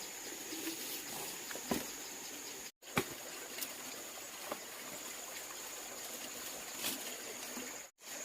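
Insects chirping in a steady high trill over faint outdoor ambience, with a few faint clicks and knocks. The sound cuts out abruptly twice.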